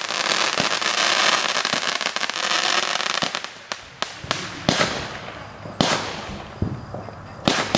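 Fireworks going off: a dense crackling for the first three seconds or so, dying away, then a series of separate sharp bangs about once a second.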